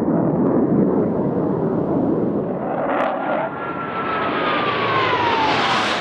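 F/A-18 Hornet jet flying past: a steady jet rumble, then a whine that falls in pitch over the last few seconds while the hiss grows brighter and louder near the end.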